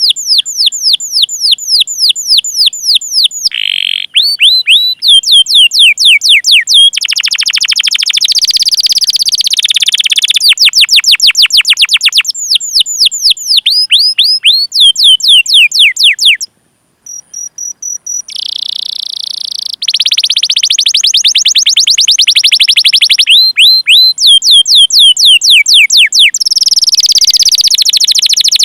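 Domestic canary song: runs of repeated falling whistled 'cuit' notes, about four a second, alternating with fast rolling trills. The song breaks off briefly a little past halfway, leaving only a few faint high notes.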